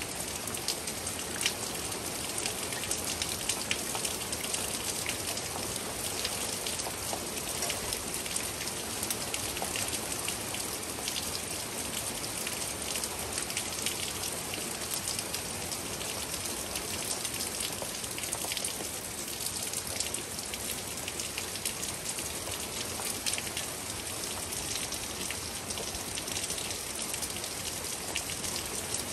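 Steady rain falling throughout, with many individual drops striking close by as short sharp ticks.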